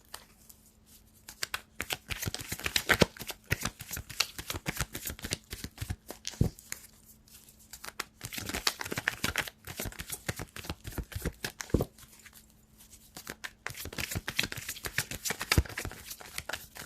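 A deck of cards being shuffled by hand: three spells of rapid papery clicking and flicking, with short pauses between them.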